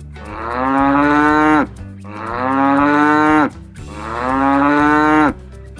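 Cow mooing three times, each moo about a second and a half long, rising slightly in pitch and then dropping off at the end.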